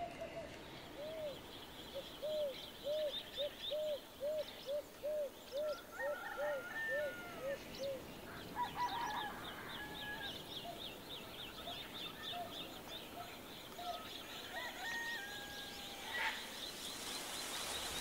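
Birds calling: a run of about a dozen low, short notes that each rise and fall, about two a second, through the first half, over a steady train of quick high chirps, with a few mid-pitched calls in the second half.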